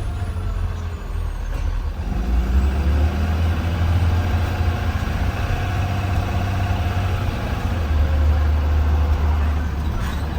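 2020 Blue Bird Vision school bus under way, heard from inside: a steady, loud low rumble of engine and road noise.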